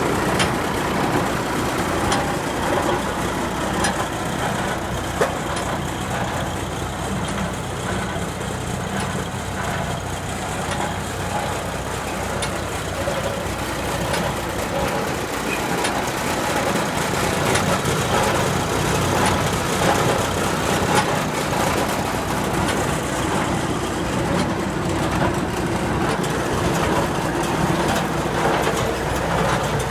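Deutz diesel engine on a Hesston 4690 baler running steadily, with a few faint clicks.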